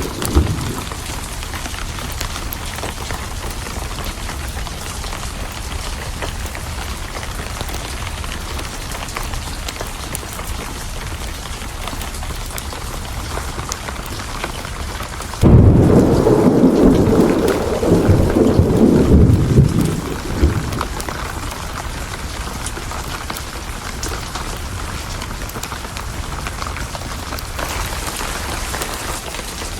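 Steady heavy rain, with a thunderclap about halfway through that breaks in suddenly and rumbles for about five seconds before fading back into the rain.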